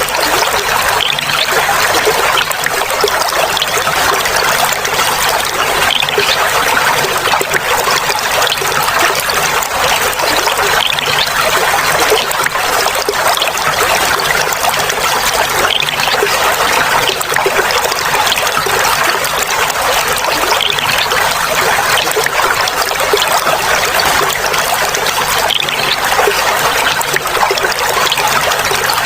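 Clear water trickling and babbling in a steady flow.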